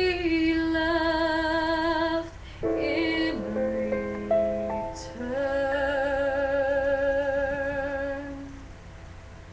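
A woman singing long, held notes with vibrato over a musical backing, fading out near the end.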